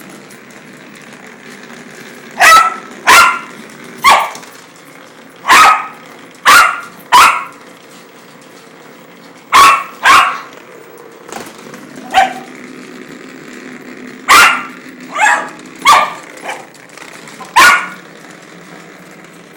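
A dog barking excitedly over a toy: loud, sharp single barks, mostly in pairs or threes, about fourteen in all with short pauses between the groups.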